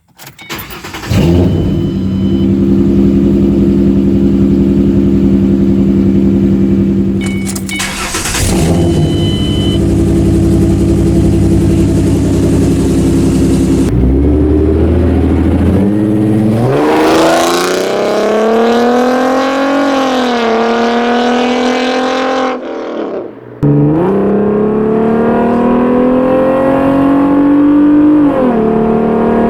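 Ford Mustang 4.0 L V6 through an aftermarket exhaust. It idles steadily with a quick rev blip about eight seconds in, then revs up and down repeatedly through the second half.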